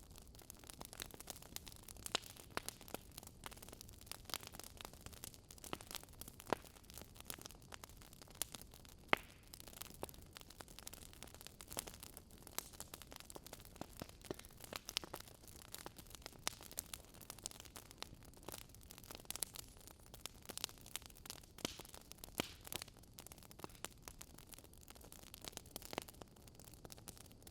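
Campfire burning, with a soft steady hiss and frequent irregular crackles and pops of burning wood, a few louder snaps among them.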